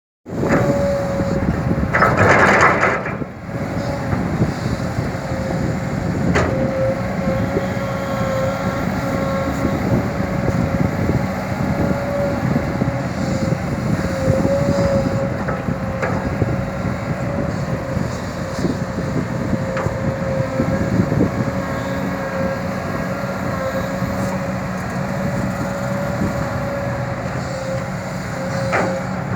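Kobelco SK200 hydraulic excavator working as it digs soil and loads a ten-wheel dump truck: a steady diesel engine and hydraulic noise with a constant whine over it. A loud rushing burst comes about two seconds in, and there are a few knocks.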